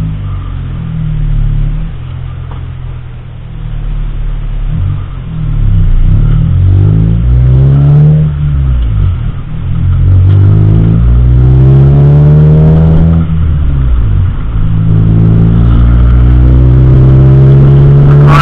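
Car engine accelerating, its pitch rising and then dropping back three times as it goes up through the gears.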